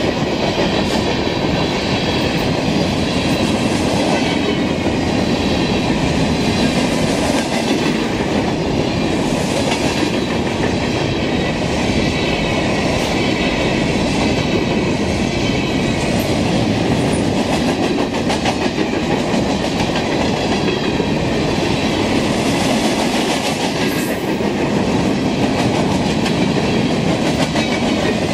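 Freight train of covered hoppers and tank cars rolling past close by: a loud, steady rumble of steel wheels on rail, with repeated clicking as the wheels cross rail joints.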